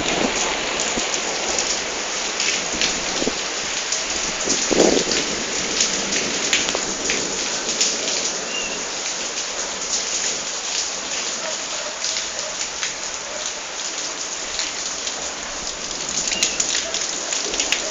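Heavy rain falling steadily during a thunderstorm, a dense hiss with many individual drops ticking on surfaces.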